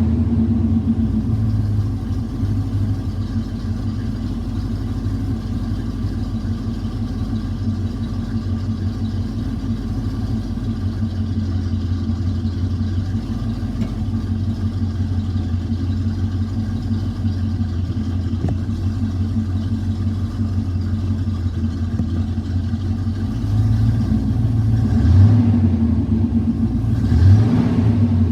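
Chevrolet 305 small-block V8 in a 1986 C-10 pickup idling steadily, then blipped twice near the end, the revs rising briefly and falling back each time.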